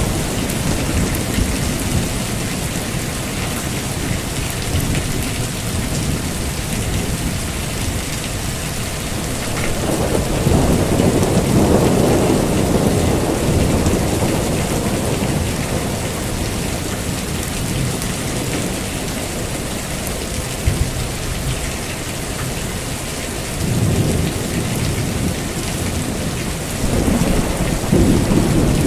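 Heavy rain falling steadily, with low rolling thunder that swells about a third of the way in and again twice near the end.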